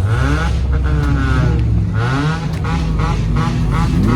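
Car engine revved several times, its pitch climbing with each blip over a steady low rumble, loud.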